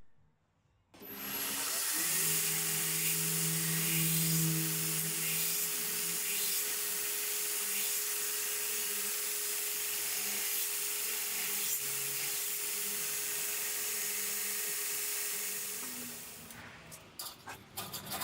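Belt grinder grinding a freshly hardened knife blade: a steady, loud hiss of the abrasive belt on steel over the motor's steady hum, starting about a second in and fading away near the end, followed by a few scattered clicks.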